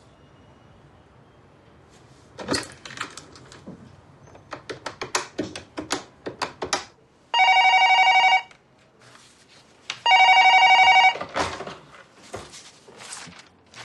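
A telephone being dialled by hand, a run of irregular clicks, then two rings of about a second each, a second and a half apart. A few clicks follow near the end as the call is answered.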